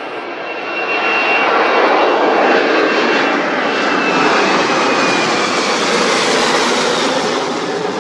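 Jet airliner engines running loud as the aircraft passes, swelling about a second in, with a high whine that slowly falls in pitch.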